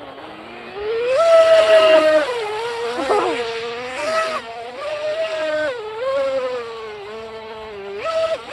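Small brushless motor of an RC mini boat (2040 size, 3900 kV, on an 11.1 V LiPo) whining at high speed. Its pitch climbs about a second in, then dips and rises again several times as the throttle is worked.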